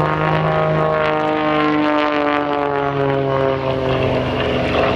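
Six-cylinder Lycoming engine and three-bladed propeller of an Extra aerobatic monoplane droning in flight, its pitch slowly falling.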